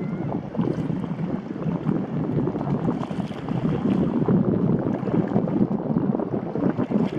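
Wind buffeting the microphone on a small sailboat under way, with the rush of water along the hull beneath it: a loud, ragged, constantly fluttering noise.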